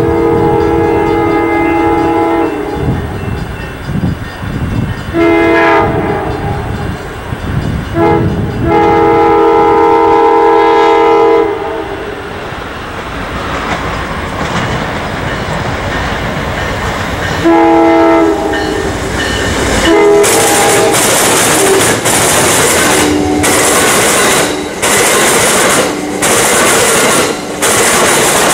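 An Amtrak passenger train's locomotive sounds its multi-note horn in about four blasts as it approaches, the second blast short. From about two-thirds of the way in, the train passes close by with the loud rush and clatter of its wheels on the rails.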